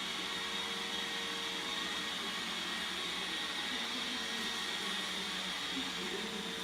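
iRobot Roomba 690 robot vacuum running: a steady motor whir with a constant high-pitched whine over it.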